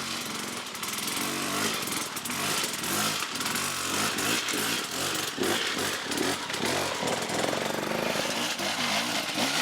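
Off-road motorcycle engines running and revving, the pitch rising and falling throughout.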